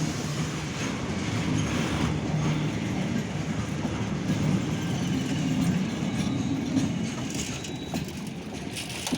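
Train passing on the railway line, a steady low rumble of wheels on the rails that eases off about seven seconds in.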